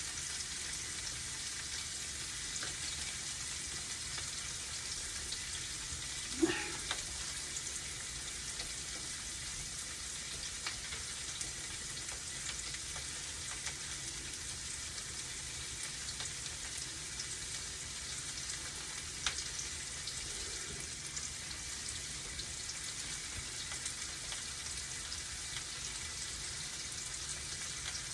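Tofu frying in oil in a small pan, a steady sizzle while it browns. Two brief sharper sounds stand out, one about six seconds in and another about nineteen seconds in.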